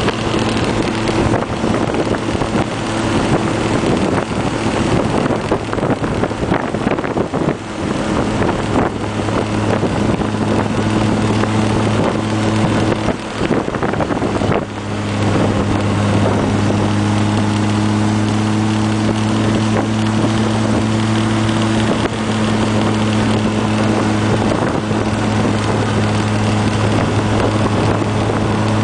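Austin-Healey Sprite ("Frogeye") four-cylinder engine running at a steady cruise with a constant hum, under heavy wind rush from the open top. The engine note sags briefly around the middle, then holds steady again.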